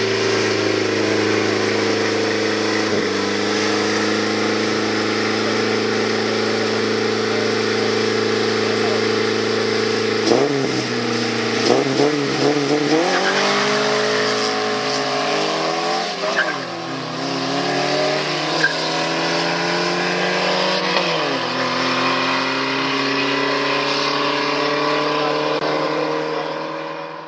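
Tuned Lada 2101 engine held at steady high revs, then revved up and down hard with tyre squeal as the rear wheels spin in a smoky burnout. Near the end it pulls up steadily through the revs after a gear change.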